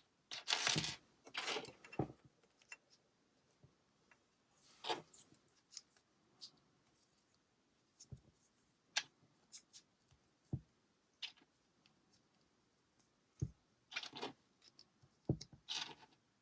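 Plastic LEGO pieces being handled and assembled: short rustling scrapes of pieces being sorted or slid, and scattered sharp clicks as parts are picked up, set down and pressed together.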